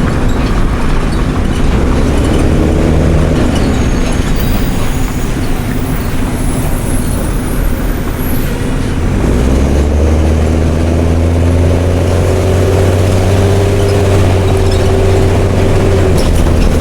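Mercedes-Benz OM366LA six-cylinder turbo diesel of a city bus running with an open exhaust, pulling under load: the engine note rises, drops about three seconds in as the automatic gearbox shifts, runs lower for a few seconds, then climbs again from about nine seconds in.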